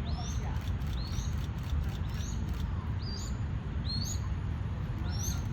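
Crested goshawk calling: a thin, high call repeated about once a second, six times, each note short and rising in pitch. A steady low rumble runs underneath.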